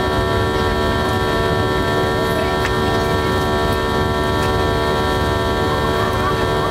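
Steady engine and airflow noise inside the cabin of a Boeing 737-800 in flight, with a set of high, constant engine tones from its CFM56-7B turbofans over a deep rush. A few faint clicks.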